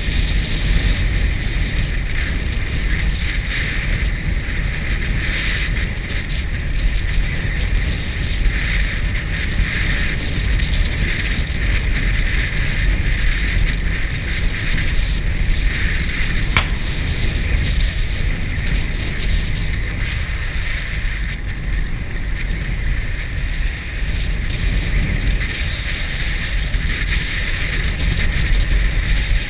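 Steady wind rush buffeting the microphone of a moving motorcycle, with the ride's road and engine noise underneath. A single sharp click a little past halfway.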